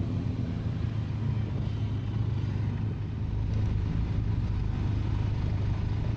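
Motorcycle riding at a steady speed: the Benelli TRK 502X's parallel-twin engine hums evenly under a haze of wind and road noise.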